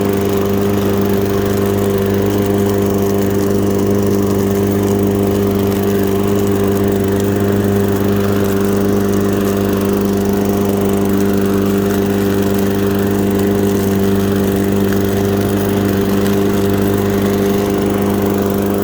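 Push lawn mower's Briggs & Stratton 4.5 hp engine running at a steady pitch while it cuts and bags leaves.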